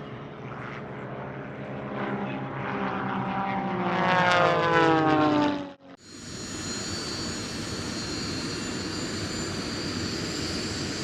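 A propeller-driven aircraft flying past, its engine note falling in pitch as it goes by, loudest about four seconds in. It cuts off suddenly near the middle, followed by steady aircraft engine noise with a high whine.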